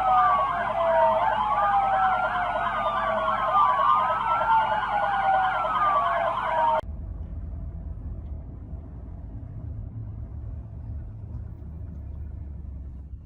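Police car sirens sounding together, one wailing in slow rising and falling sweeps over another in a fast yelp. They cut off abruptly about seven seconds in, leaving a low steady rumble.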